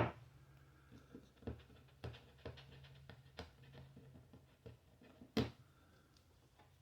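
Faint, scattered small taps and clicks of hands handling pieces of wood and the adhesive dots on a workbench, with one sharper knock about five seconds in, over a faint low hum.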